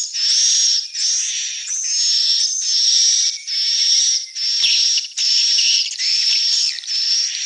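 Swiftlets calling: a steady run of buzzy, high-pitched chirps, each just under a second long with a thin whistle on top, following one another at a little over one a second. A few faint clicks come in about halfway through.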